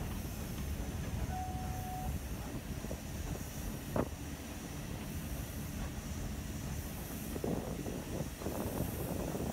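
Narrow-gauge train running steadily on the rails, a continuous low rumble of wheels and running gear. There is a short squeal about a second in and a single sharp clank about four seconds in, and the rattling clatter thickens near the end as the train runs onto a trestle bridge.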